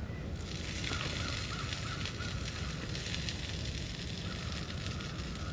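Potatoes frying and sizzling in a small cast iron skillet, with light crackling and a steady low rumble underneath.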